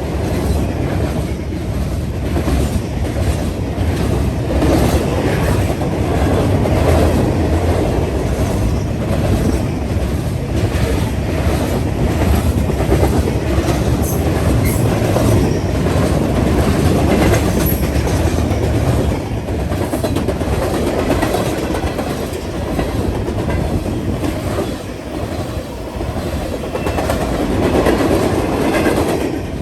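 Freight cars rolling steadily past, their wheels clacking over rail joints in a continuous run of clicks.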